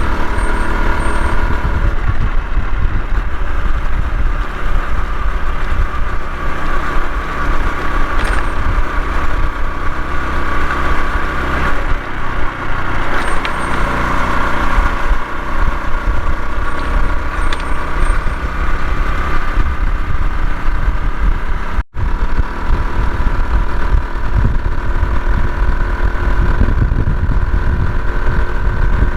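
Honda CT125 Hunter Cub's single-cylinder engine running steadily while riding, with strong wind buffeting the microphone.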